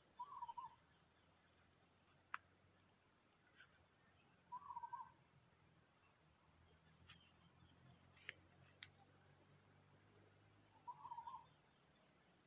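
Jungle ambience: a steady high-pitched drone of insects, with a short warbling animal call three times, several seconds apart. A few sharp clicks are heard.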